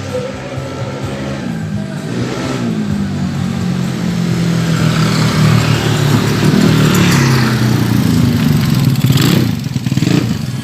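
Yamaha Mio scooter's race-tuned 150cc engine revving up and down several times, louder in the middle stretch.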